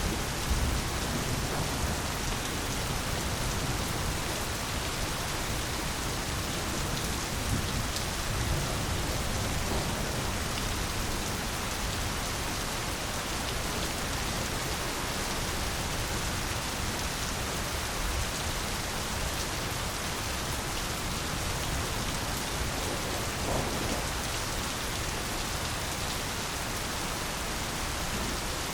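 Steady rain falling, an even hiss that does not let up, with a low rumble underneath in roughly the first ten seconds.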